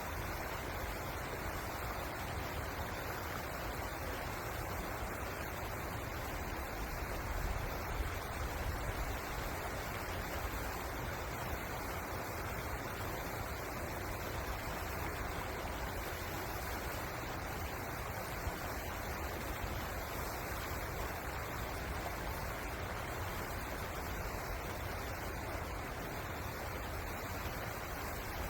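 River water rushing steadily, an even noise with a strong low rumble and a slight swell about a quarter of the way in.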